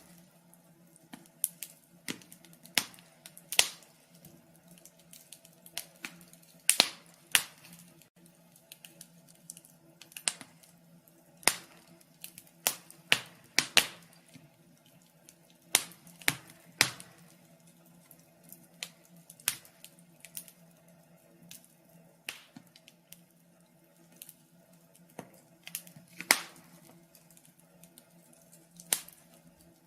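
Fire crackling: irregular sharp pops and snaps, about one or two a second, a few of them loud, over a faint steady low hum.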